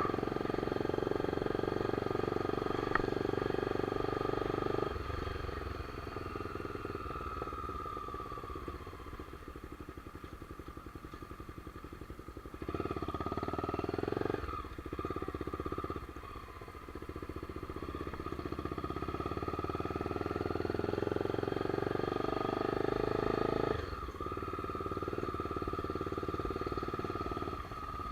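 Motorcycle engine running while riding, its note rising and falling with the throttle: strong for the first few seconds, easing off about five seconds in, building up again in the second half and backing off near the end.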